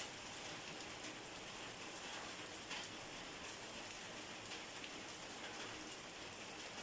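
Steady rain falling on a surface: an even hiss with scattered sharper drop clicks.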